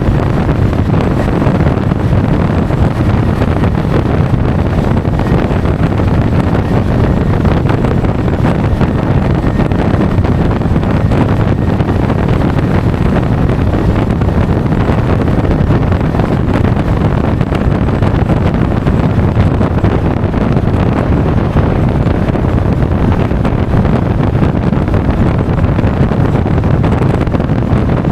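Steady wind rush buffeting a DJI Osmo Action 4's microphone on a moving Honda Forza 350 scooter, heaviest in the low end and unbroken throughout, with the scooter's running and road noise mixed underneath.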